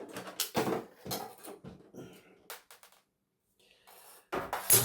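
Light knocks and clicks of television parts being handled during dismantling. After a brief pause comes a louder clatter near the end, and the part sounds metallic.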